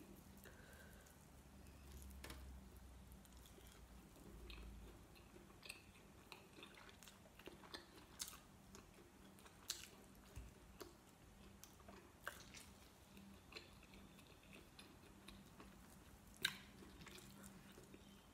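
Faint chewing and mouth sounds of a person eating sticky rice and braised chicken liver by hand, with scattered soft clicks.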